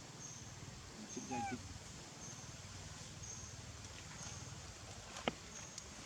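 A monkey's short call with a bending pitch about a second and a half in, then a single sharp click near the end, over a steady low hum.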